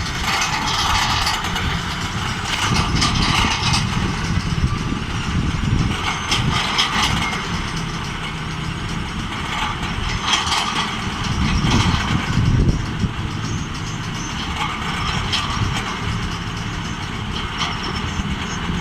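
Earth-drilling machine running: a steady engine drone with irregular metallic rattles and knocks over it.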